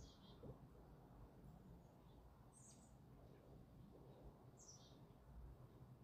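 Faint songbird chirps: short high calls that fall in pitch, three times, over a low steady background rumble.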